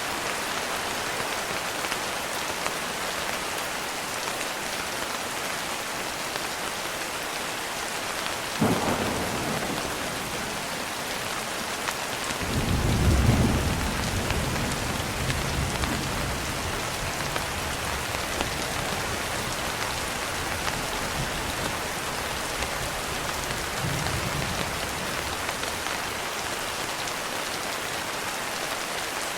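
Steady heavy rain throughout. About nine seconds in there is a sharp crack of thunder. A few seconds later comes a loud, low thunder rumble that dies away over several seconds, and a fainter rumble follows later.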